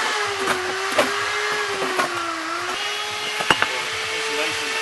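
An electric power tool motor running with a steady whine whose pitch sags a little under load and recovers, while hammer blows knock sharply several times on a building site.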